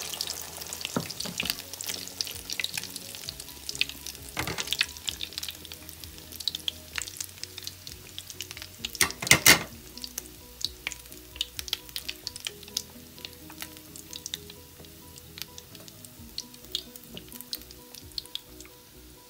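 Egg-coated beef kebab patties frying in hot oil in a pan: a steady sizzle full of small crackles and pops, with a louder burst of spattering about nine seconds in.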